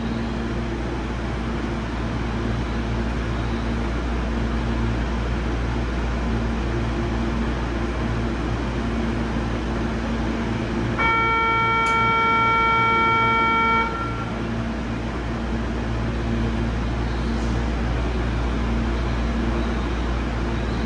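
Steady hum inside a stopped Sotetsu 20000 series electric train car, doors open at the platform. About eleven seconds in, a steady electronic tone sounds for about three seconds, then stops.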